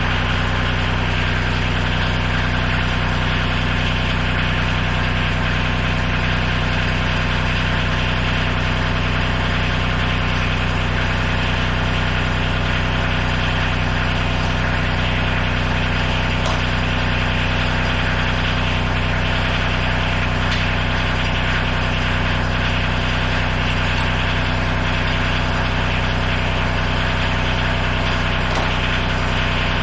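Tractor engine running at a steady, unchanging speed, with no revving or load changes.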